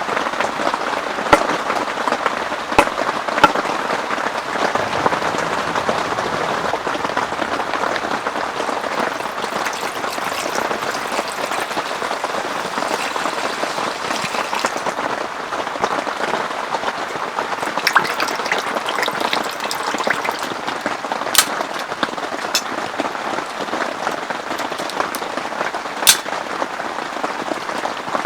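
Steady heavy rain falling, with a few sharper single drop hits standing out now and then.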